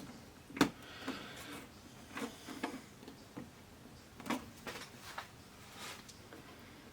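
Scattered light clicks and taps from handling parts inside an opened LED-backlit LCD TV, pressing and checking that they are clipped in. The sharpest click comes about half a second in, with a few softer ones later.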